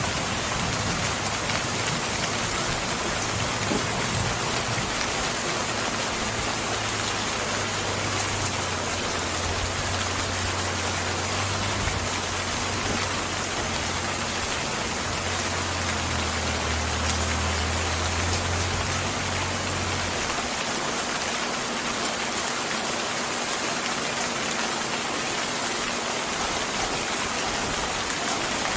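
Steady, heavy rain falling on surfaces, a dense even hiss. A low rumble swells under it from about a fifth of the way in and stops abruptly about two-thirds through.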